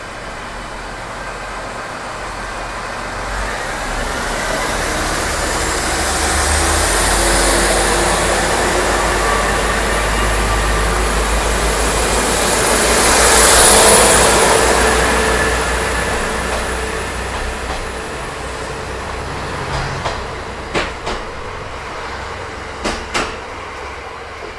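A passenger train running in past the microphone. The noise builds to its loudest about halfway through, with a thin, high, steady squeal, then eases off as the train slows. A few sharp clicks come near the end.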